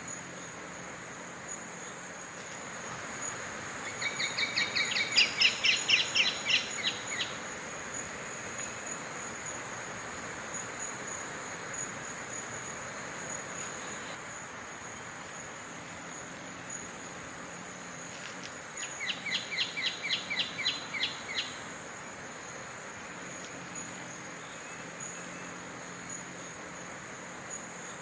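Brown-backed honeyeater singing two rapid runs of sharp repeated notes, each lasting about three seconds: one a few seconds in and one about two-thirds of the way through. A steady high insect drone sounds underneath.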